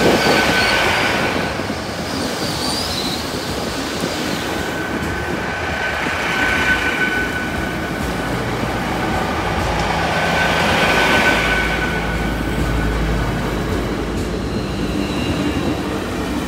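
LNER Class 800 Azuma train running past over a level crossing, its wheels on the rails giving a steady high-pitched squeal. The noise swells three times as the bogies go by. A low drone builds near the end as the last car passes.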